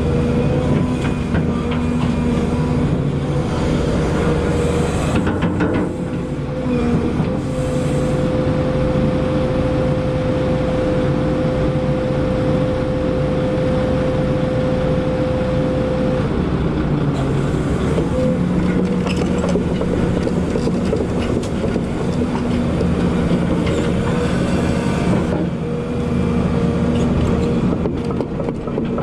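Volvo EC220E excavator's diesel engine and hydraulics running steadily while working, with a steady whine that stops about two-thirds of the way through.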